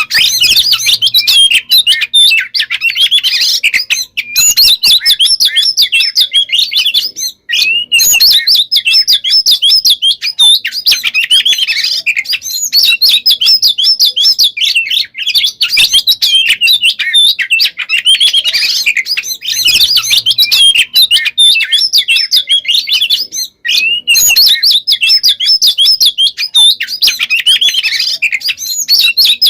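Oriental magpie-robin (kacer) singing a loud, nonstop song of sharp notes and fast trills packed with mimicked phrases. It breaks off only briefly, about four, seven and a half and twenty-three seconds in.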